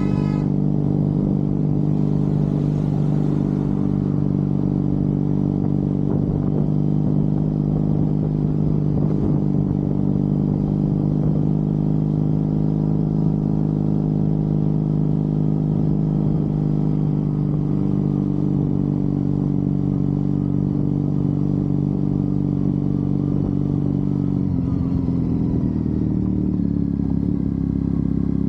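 Triumph Bonneville's parallel-twin engine running steadily on the road. About 25 seconds in the engine note drops and then holds lower.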